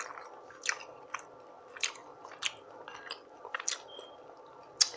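Close-miked chewing, with about six sharp, wet mouth smacks and clicks coming at irregular intervals over a quiet background.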